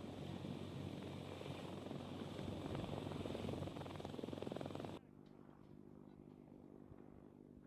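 Helicopter rotor and engine noise, a steady rumble that cuts off abruptly about five seconds in to a quieter, steady hum.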